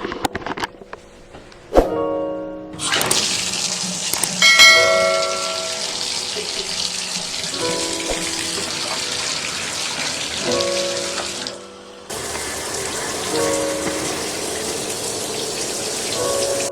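Shower water running, a steady hiss that starts about three seconds in and breaks off briefly near the twelve-second mark, with background music playing over it. A few sharp clicks come before the water starts.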